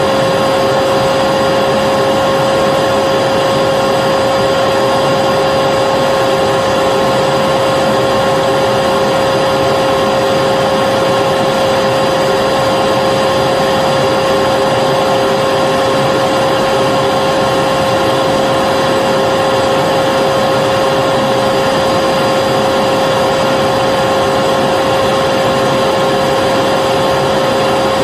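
Vacuum cleaner motor running steadily: a constant rushing whoosh with a steady whine, unchanging throughout.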